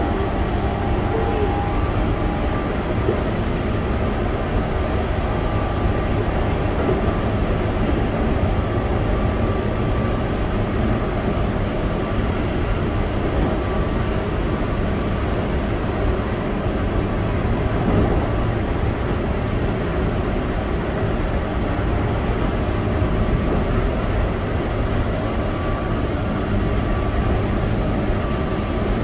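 Keihan 8000 series electric train running steadily, heard inside the passenger car: an even rumble of wheels and car body on the rails, with a faint steady high hum.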